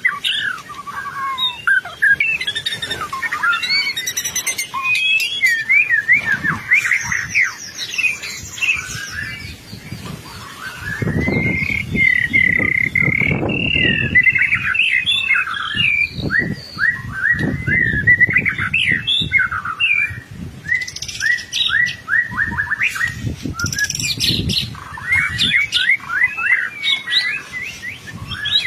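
White-rumped shama singing without a break: a fast, varied stream of whistled sweeps, trills and rattling phrases. A low rumble sits under the song for a stretch in the middle.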